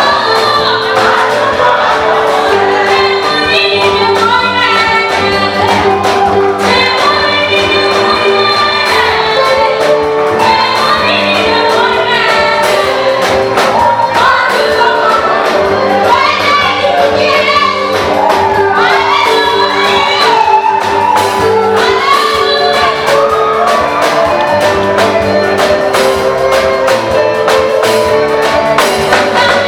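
Choir and female lead voice singing an upbeat African gospel song, backed by drums and a steady bass line.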